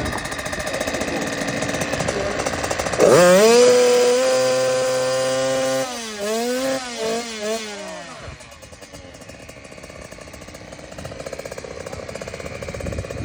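Motocross bike engine running: it is revved up sharply about three seconds in and held high, then blipped up and down several times, then drops back to a steady idle.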